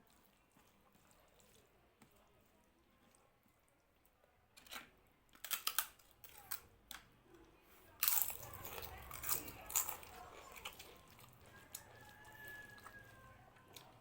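Close-up eating sounds: sharp crunches and clicks about five seconds in, then a louder stretch of chewing and mixing noise from about eight to eleven seconds in.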